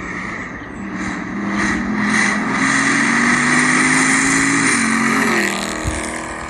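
Supercharged V8 of an 800 hp Camaro ZL1 1LE revved up and held at high revs for a few seconds over a loud hiss, then dropping off near the end: a launch-control attempt that turns into a burnout.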